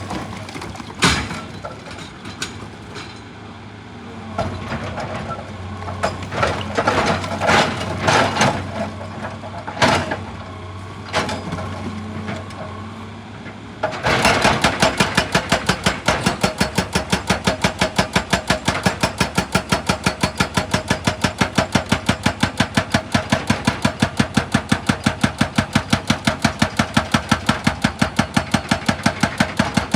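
Excavator's diesel engine running with scattered knocks and scrapes. About halfway through, a hydraulic breaker hammer starts pounding at a rapid, even rate of about four to five blows a second.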